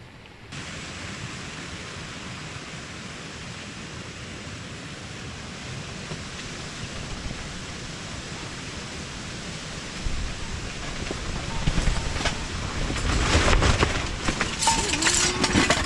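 Heavy typhoon rain and wind make a steady hiss. From about ten seconds in, stronger gusts add low rumbling buffets and irregular knocks and rattles, growing louder toward the end.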